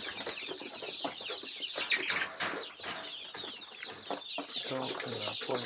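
A flock of four-week-old layer chickens clucking and peeping, many short calls overlapping.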